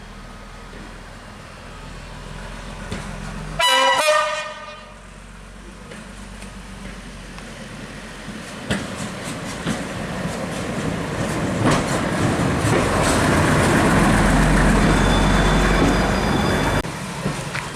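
1958 Waggon und Maschinenbau diesel railcar: one short horn blast about four seconds in, dipping slightly in pitch. Then the rumble of the railcar grows steadily louder, with wheel clicks over the rail joints, and drops away abruptly near the end.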